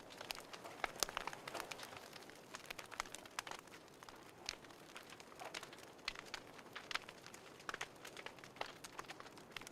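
Fireplace crackling: irregular sharp pops and snaps, several a second, over a faint steady hiss.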